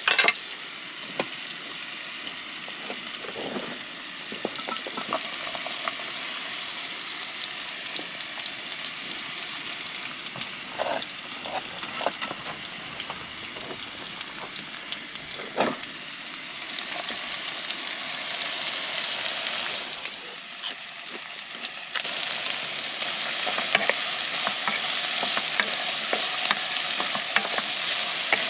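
Pork fat sizzling in a frying pan, with scattered knocks and scrapes of a utensil stirring it. The sizzle steps up louder about three quarters of the way through.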